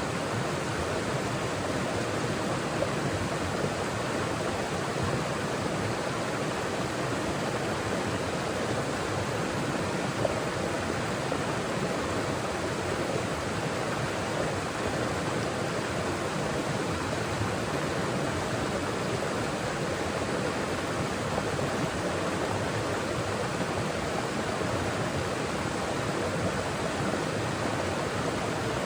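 Mountain forest stream flowing over rocks, a steady rush of water.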